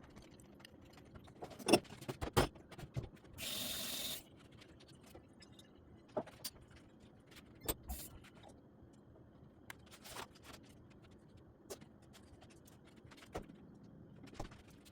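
Scattered clicks and knocks of small objects being handled, with two sharper knocks about two seconds in, followed by a steady hiss lasting a bit under a second.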